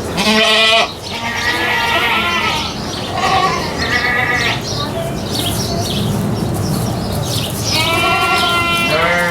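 Goats bleating, a string of calls, some overlapping, the loudest about half a second in and a longer one near the end.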